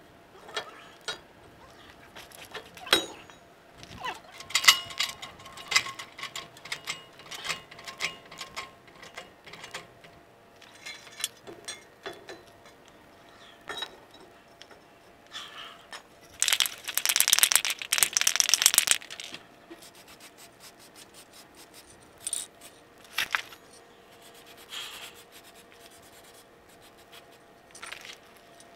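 Hand tools and steel suspension hardware clinking and clattering in scattered knocks while the leaf spring is bolted up. About two-thirds of the way in comes a stretch of rapid, even clicking, a ratchet wrench being cranked, which is the loudest sound.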